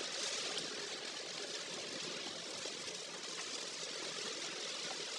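A car driving on a storm-soaked road in typhoon weather: a steady rushing hiss of wet tyres and rain.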